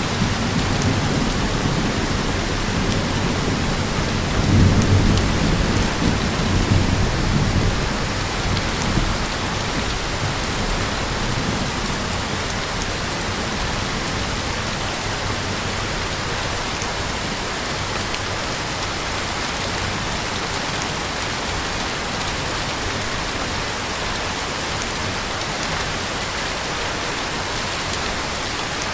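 Heavy rain falling steadily as an even hiss. For the first several seconds a low rumble of thunder builds, loudest about five seconds in, then fades away under the rain.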